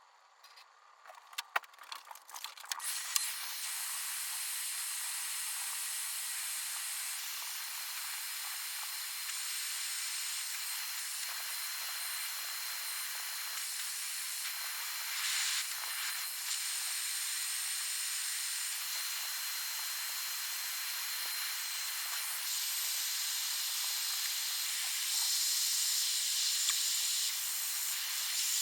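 Aerosol spray paint can spraying: a few clicks of handling, then a steady spray hiss that keeps going for over twenty seconds as a coat of paint goes onto the rust-treated battery tray.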